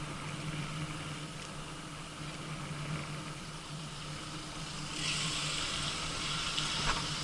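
Road and traffic noise heard from a bicycle on a highway: a steady low hum under a noisy hiss, with the hiss growing louder about five seconds in.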